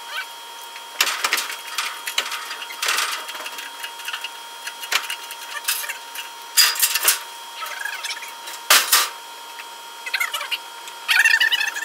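Irregular metallic clicks and clatter of hand tools being worked on metal, over a faint steady whine, with a quick run of squeaky chirps near the end.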